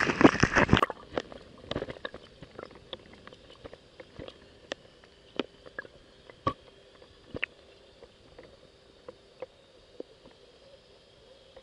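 Water washing and splashing loudly for about the first second, then cutting off to scattered drips and small pops that thin out over the following seconds.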